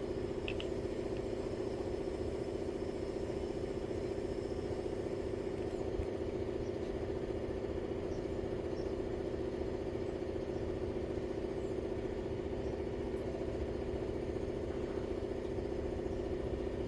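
Steady low machine hum, unchanging throughout, with a couple of faint light clicks about half a second in.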